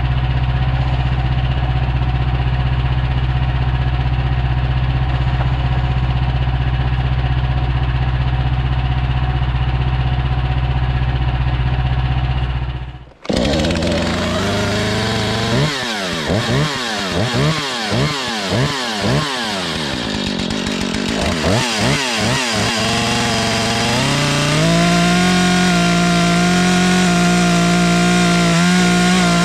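A small engine runs steadily for about thirteen seconds, then cuts off suddenly. A chainsaw is then revved up and down repeatedly, about twice a second, and from about 24 seconds on held at a steady high speed.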